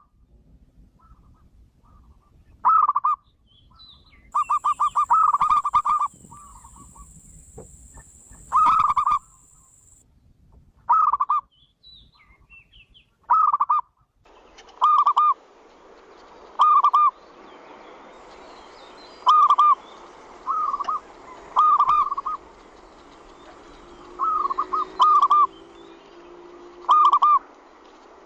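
Zebra dove (perkutut) cooing: short, loud call phrases repeated every one to three seconds, with a fast run of quick notes about four seconds in. A steady hiss comes in underneath about halfway through.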